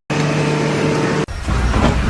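Heavy engine noise: a steady droning hum with a few held tones for about a second, then a sudden cut to a low engine rumble.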